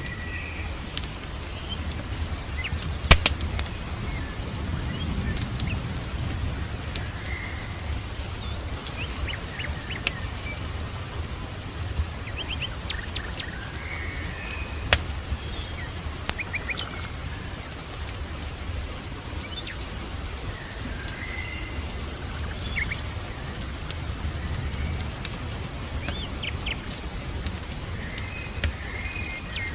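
Ambient mix of a crackling fireplace and songbirds chirping: sharp fire pops and crackles, the loudest about 3 seconds in and another near the middle, among short bird chirps, over a steady low rumble.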